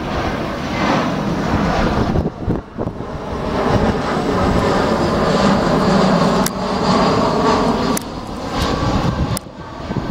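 Airliner engines running loud and steady as a plane comes in to land, swelling in the middle with brief dips.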